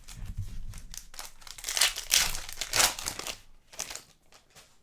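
Plastic trading-card pack wrapper crinkling as it is torn open and handled, in irregular rustling bursts that are loudest around the middle and die down near the end.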